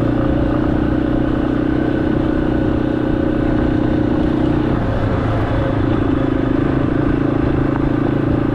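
Yamaha XT250's single-cylinder four-stroke engine running steadily while being ridden on a dirt road. The engine note drops briefly about halfway through, then picks back up and holds steady.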